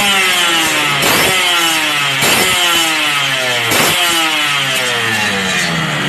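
Yamaha RX-King's two-stroke single-cylinder engine revved in four quick throttle blips through an aftermarket Lobster racing exhaust with an aluminium silencer; each blip jumps up sharply and falls back in pitch. Near the end it drops back toward idle.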